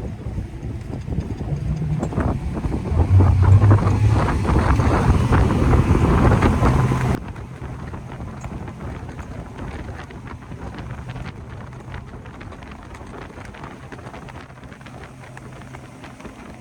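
Outboard motors of a Beneteau Antares 11 throttling up to high speed, growing louder and rising in pitch over about seven seconds, with wind buffeting the microphone. About seven seconds in the sound drops abruptly to a steadier, quieter engine drone under wind.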